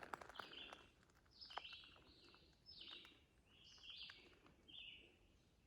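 A songbird calling over and over, faint: short chirps that each step down in pitch, about one a second.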